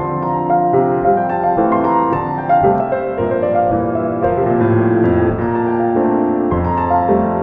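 Background music: a piano piece, its notes ringing over one another.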